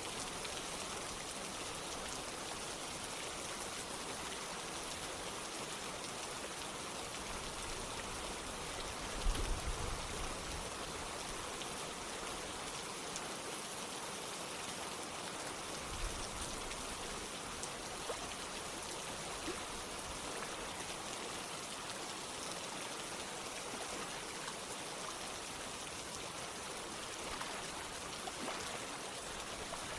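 Steady rain falling together with flowing water, an even hiss with a few louder drops. A brief low rumble comes about a third of the way in, and a shorter one a few seconds later.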